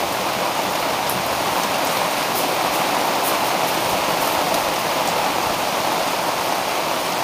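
Rain pouring down steadily, an even, dense hiss.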